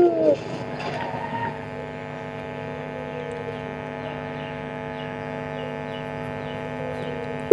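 The last falling note of a puter pelung dove's coo dies away in the first moment. A steady electrical hum made of several even tones follows, and the next coo starts right at the end.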